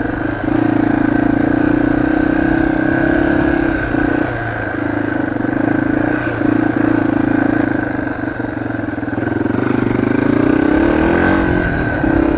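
Dirt bike engine running on the move, heard from a microphone inside the rider's helmet. Its note holds steady, drops briefly a few times as the throttle eases, and climbs again near the end.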